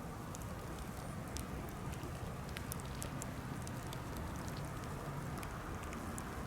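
Birch-wood bonfire crackling: many small, irregular pops and snaps over a steady low rush.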